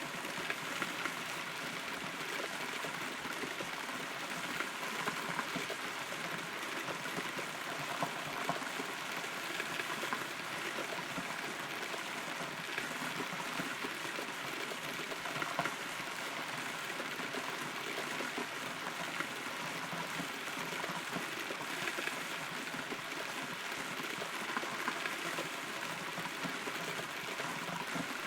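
Steady rain heard from inside a hollow, rotten tree trunk: a constant wash of falling rain with many small, separate drip hits throughout.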